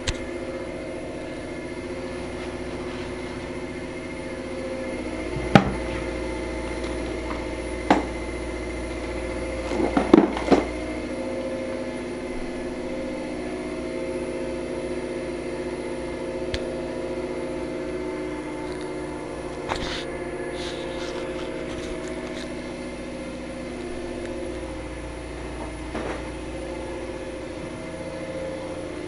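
Machinery running with a steady hum, broken by a few sharp knocks and clatters, the loudest a cluster about ten seconds in.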